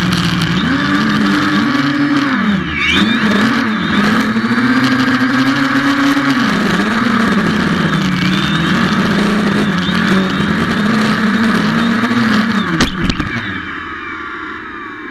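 Xiaomi FIMI A3 drone's motors and propellers whirring, the pitch rising and falling again and again as the motor speed changes. About thirteen seconds in there is a sharp knock, and then the whir fades away.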